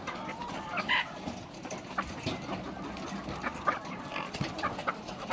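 A flock of laying hens clucking, with many short calls and clicks scattered over a steady background noise.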